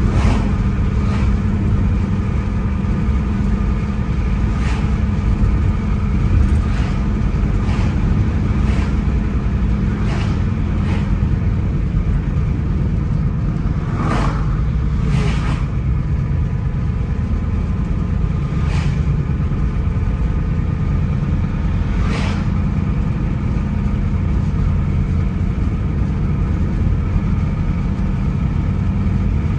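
Car driving on a road: a steady low rumble of engine and tyres with a faint even hum, broken by about a dozen short sharp knocks at irregular intervals.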